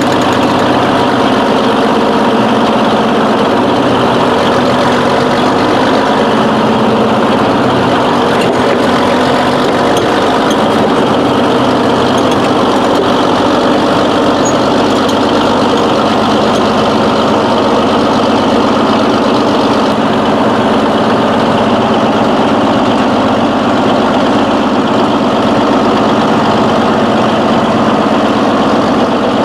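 Large engine idling steadily, running evenly with no change in speed.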